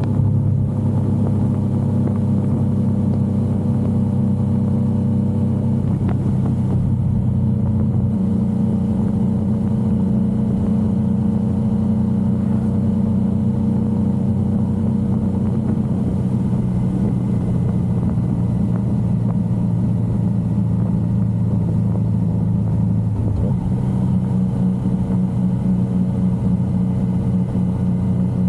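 Yamaha XSR900 inline three-cylinder engine running at steady cruising speed, heard from on board the motorcycle. About three-quarters of the way through, the engine note dips briefly and then settles at a new steady pitch.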